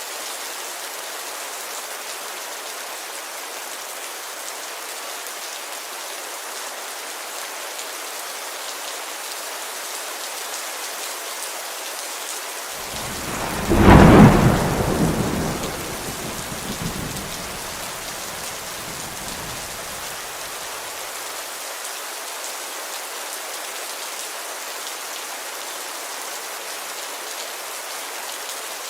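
Steady rain on a window, with one clap of thunder about halfway through that rumbles away over several seconds.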